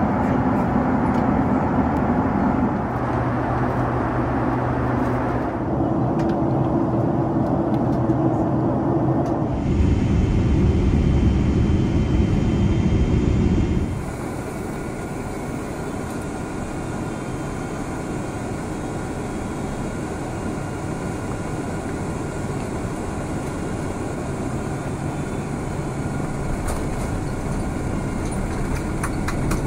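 Steady cabin noise of a Boeing 767-300ER, its jet engines and rushing air heard from inside, with a low hum. The sound shifts abruptly several times, loudest for a few seconds before dropping to a quieter, even rush about halfway through.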